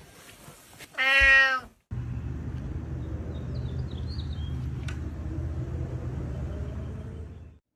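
A domestic cat gives one loud meow about a second in, dropping slightly in pitch. A steady low rumble follows and cuts off shortly before the end.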